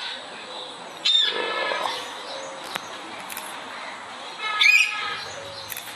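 Birds calling over steady background noise, with two louder pitched calls: one about a second in and one about four and a half seconds in.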